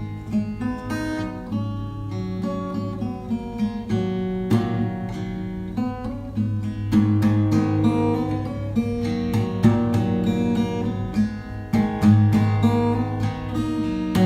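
Background music: acoustic guitar plucked and strummed, with many notes picked in quick succession over low sustained bass notes.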